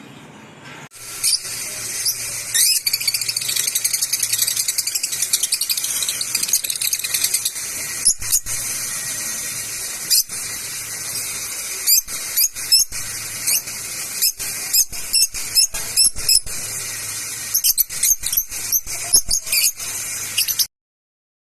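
A flock of lovebirds chattering loudly with dense, shrill, high-pitched chirps, sharp single calls standing out again and again, thickest in the last few seconds. The sound cuts off abruptly about a second before the end.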